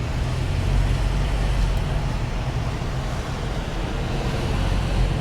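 Steady engine and road noise of a car being driven, a continuous low hum with no sharp events.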